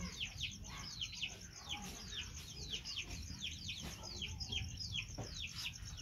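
Bird chirping over and over, a run of quick downward-slurred chirps two or three a second, over a fast, high, pulsing trill.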